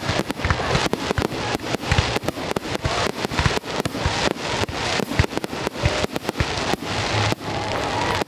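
Aerial fireworks going off in quick succession: a dense run of sharp bangs and pops, several a second, with no break.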